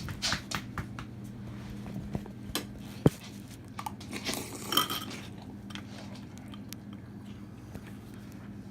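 Spoon clinking against a cereal bowl and chewing, with scattered sharp clicks in the first few seconds and a steady low hum underneath.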